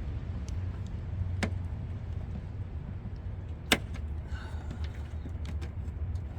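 Hands working plastic clips and zip ties in a car's engine bay: a few sharp clicks, one loud snap about halfway through, over a steady low rumble.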